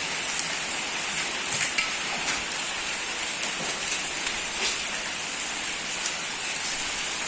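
Heavy rain mixed with hail pelting down: a steady hiss of rain with scattered sharp hits of hailstones striking surfaces, a small cluster of them about a second and a half in.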